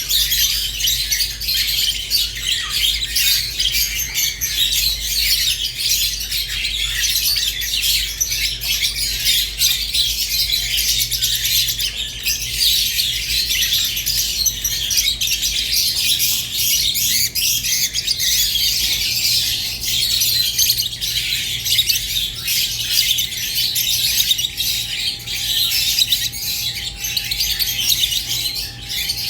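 Rosy-faced (peach-faced) and Fischer's lovebirds chirping and chattering without pause in dense, high-pitched twitters with occasional squawks, over a low steady hum.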